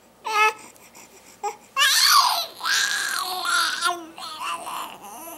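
A baby's high-pitched vocalizing: a short call, then a longer, louder run of wavering, cry-like sounds from about two to four seconds in, fading to softer calls near the end.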